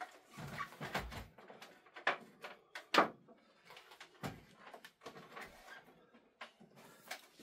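Handling noises around the amplifier on the bench: a series of irregular clicks and knocks, the loudest about three seconds in.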